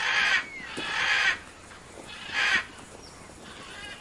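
A farm animal calling three times in loud, rough cries, with faint short bird chirps in between.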